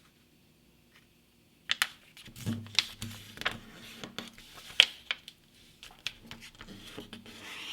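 A sheet of printer paper being folded in half and creased: a run of sharp crackles, taps and rustles that starts after a short silence, about two seconds in.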